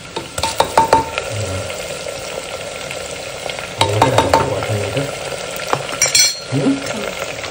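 Chopped onions frying in hot oil in a pressure cooker, a steady sizzle, as a lump of ground masala paste goes in. A metal spoon clinks and scrapes against the pot in two bouts of stirring, about a second in and again about four seconds in.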